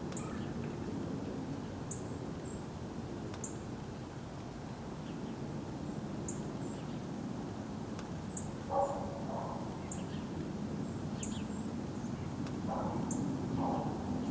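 Small birds giving short, very high, thin call notes every second or two in a snowy woodland, with two lower, harsher paired calls past the middle and near the end, over a steady low background rumble.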